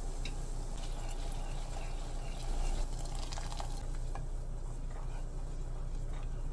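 Onions, ginger-garlic paste and tomato purée frying in hot oil in a steel pan: steady sizzling, with a few light taps and scrapes of a spoon and a wooden spatula against the pan.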